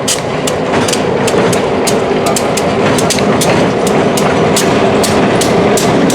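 Train rolling past at a rail yard: a steady rumble of wheels on rail, broken by sharp, irregular clicks several times a second as the wheels cross rail joints.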